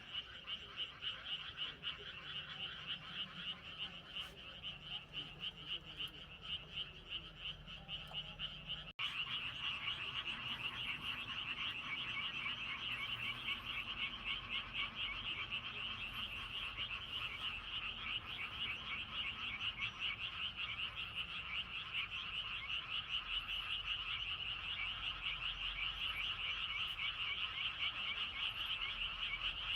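Dense chorus of many small frogs calling from a flooded rice paddy, a continuous fast pulsing croak. An abrupt cut about nine seconds in makes the chorus louder.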